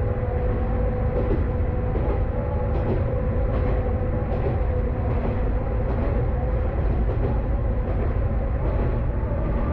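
Kanto Railway KiHa 532 diesel railcar running along the line, a steady low rumble of engine and wheels with a steady mid-pitched tone through it.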